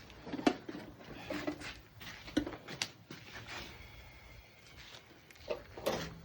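Scattered knocks and light clatter of equipment being handled, a few sharp ones standing out over a quiet background.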